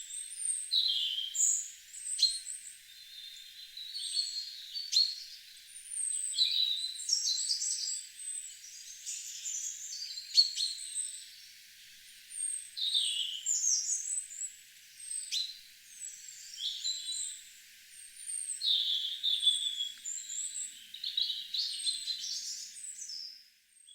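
Garden songbirds singing, several at once, in overlapping high chirps, whistled phrases and quick trills. The sound fades out just before the end.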